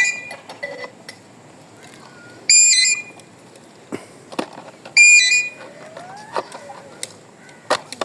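A parrot giving three short, shrill calls about two and a half seconds apart, with fainter sliding sounds and a few clicks in between.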